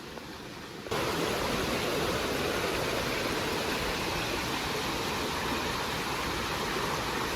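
Steady rush of flowing creek water, a loud even hiss that starts abruptly about a second in.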